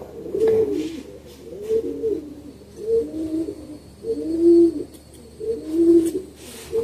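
Domestic pigeon cooing: a low coo repeated about five times, roughly every second and a half.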